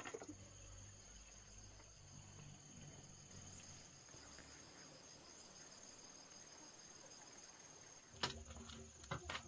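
Faint, steady, high-pitched insect chirring that runs on without a break. A few sharp knocks come near the end.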